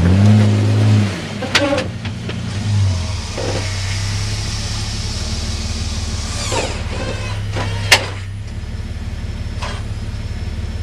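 A vehicle engine running at a steady idle, after a brief rise and fall in engine speed in the first second. A single sharp click comes about eight seconds in.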